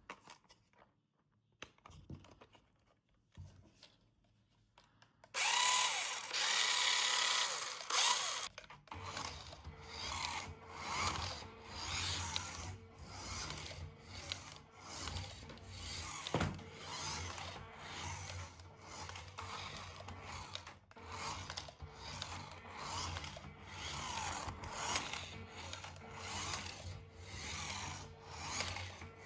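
Small electric motor of a toy RC car whirring like a little drill, after a few faint clicks. The sound starts loud about five seconds in, then carries on with a steady low hum and swells and eases about once a second.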